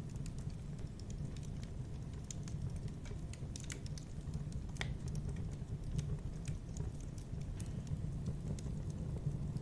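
Fireplace wood fire crackling: irregular sharp pops and snaps over a steady low rumble, with one louder pop about five seconds in.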